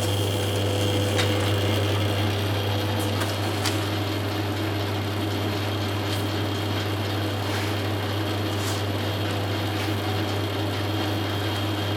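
Gluing machine running steadily with a low motor hum and a few faint clicks.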